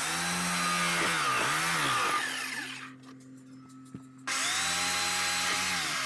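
Electric jigsaw running in two spells, about three seconds and then two, with a short pause between. In the first spell the motor's pitch dips and comes back up partway through.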